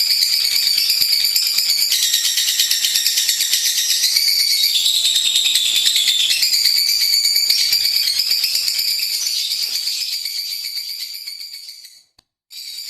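Lovebird singing a long, rapid, high-pitched chattering trill that shifts in pitch every second or two. It fades out shortly before the end, breaks off for a moment, then starts again.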